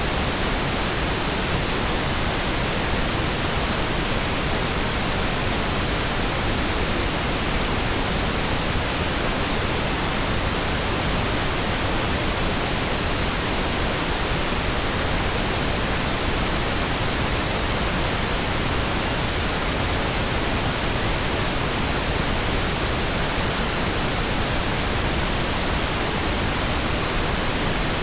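Synthetic pink noise: a steady, even hiss with no changes or interruptions.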